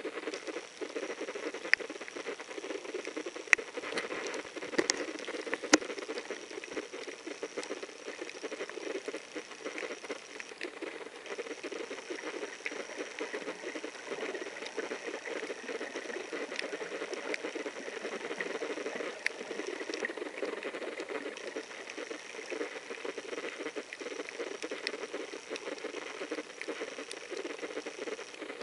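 Underwater coral-reef ambience: a dense, continuous crackle of fine clicks, with a few sharper, louder clicks in the first six seconds. Behind it runs a faint steady high whine that drops out briefly twice.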